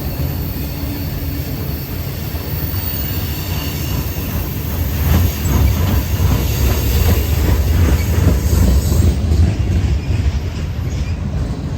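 Norfolk Southern train cars rolling past with a steady low rumble. About halfway through, the wheels start clattering over the rail joints in a quick run of clacks and the passing grows louder for a few seconds, then eases off near the end.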